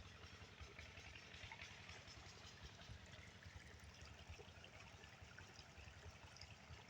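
Faint pumped water flowing and splashing, with irregular low thudding underneath.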